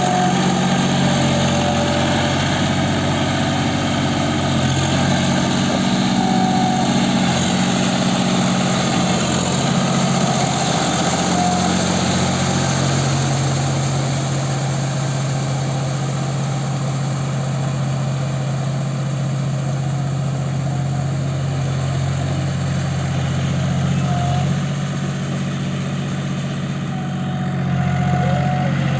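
John Deere 5050D tractor's three-cylinder diesel engine running steadily, with slight swells in level about six seconds in and again near the end.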